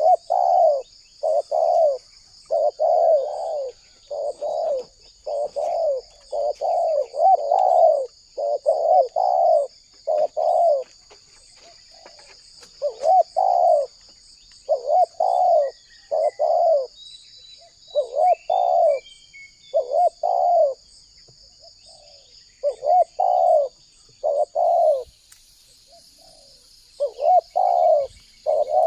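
Spotted doves cooing over and over in short repeated phrases, with brief pauses between runs. A steady high-pitched drone runs underneath.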